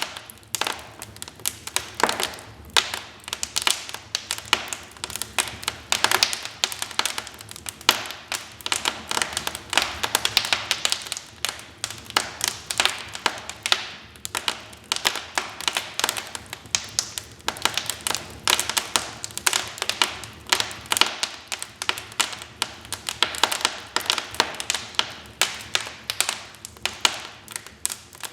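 Wood fire crackling in a fireplace: dense, irregular pops and snaps over a soft hiss of burning logs.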